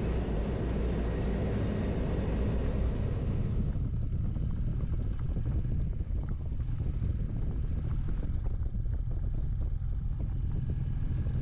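Motorcycle engine running steadily, with low wind rumble on the microphone.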